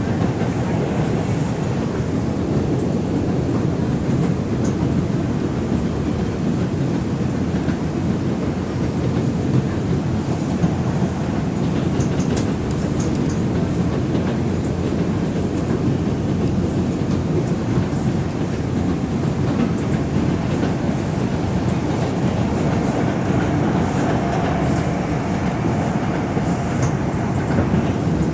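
R142 subway car heard from inside while running at speed: a steady, loud rumble of wheels on rail, with a faint steady high whine above it.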